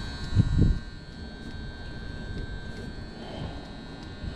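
Steady electrical buzz from the furnace's control relay, loud enough that the technician first takes it for the transformer, with two low thumps about half a second in.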